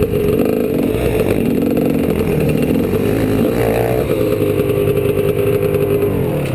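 2003 GasGas EC300's two-stroke 300 cc engine running steadily, with a brief rise in revs about three and a half seconds in and the pitch easing down just before the end as the bike slows.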